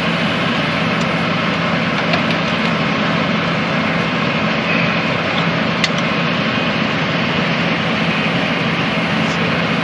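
Tractor engine running steadily with a constant low hum, with a few faint clicks over it.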